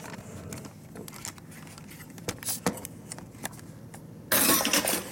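Thin metal parts of a camp fire stand clinking and rattling lightly as they are handled and fitted, with a loud, short scraping rustle about four seconds in.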